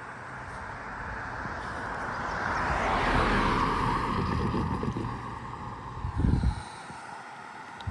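A road vehicle passing by, its tyre and engine noise swelling to a peak about three seconds in and then fading with a falling sweep. A brief gust of wind buffets the microphone about six seconds in.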